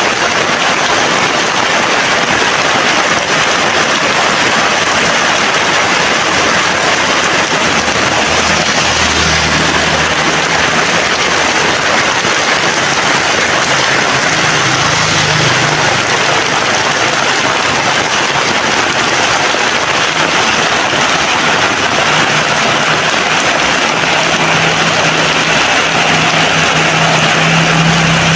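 Heavy rain falling in a steady, dense hiss. A low hum comes in under it around the middle and again near the end.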